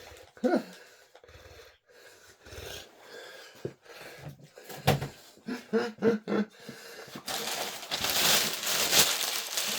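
Takeaway packaging being handled, with scattered clicks and knocks, then a loud crinkling rustle from about seven seconds in. A brief low mumbled voice sounds twice.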